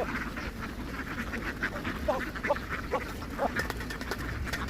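A large flock of domestic ducks quacking, many short calls overlapping without a break.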